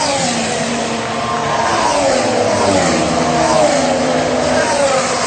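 An engine-like pitched sound that falls in pitch repeatedly, a new drop starting about every one and a half to two seconds, over a steady rushing noise.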